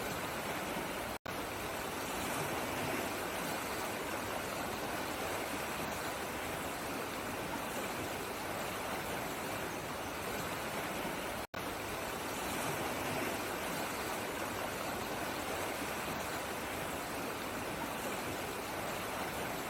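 Steady rush of running water, a flowing stream. The sound drops out completely for an instant twice, near the start and a little past the middle.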